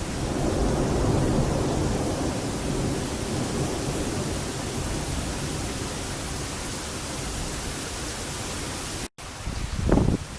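Thunderstorm at night: a steady hiss of heavy rain with a low thunder rumble that swells in the first few seconds and fades away. Near the end the sound cuts out for an instant and a short, loud low thump follows.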